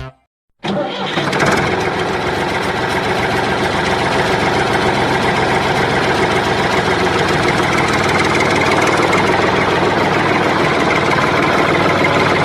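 A tractor engine starts suddenly after a moment of silence, then runs steadily at idle.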